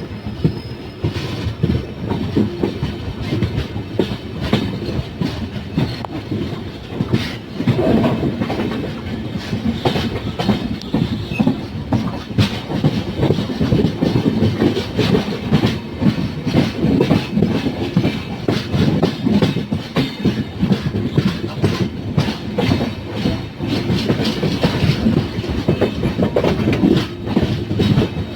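Express passenger train rolling past, its wheels clattering over the rail joints in a dense, uneven run of knocks that keeps on steadily.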